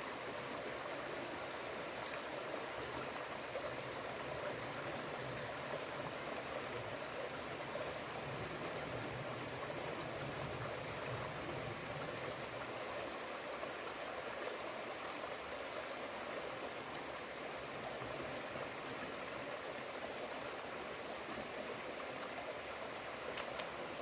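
Steady rushing of running water, even and unbroken, with a few faint clicks near the end.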